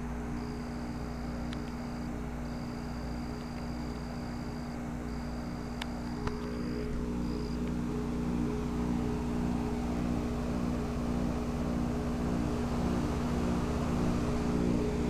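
Goodman heat pump outdoor unit running in cooling mode: a steady hum from the compressor with the even rush of the condenser fan.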